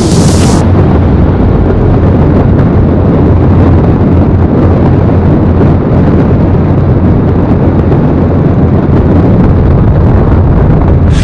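Heavy, steady wind rumble buffeting the microphone while riding a bicycle.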